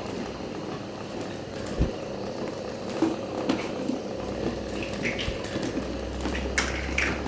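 Electric fan running with a homemade propeller blade fitted: a steady hum with irregular clicks and knocks, more frequent in the second half.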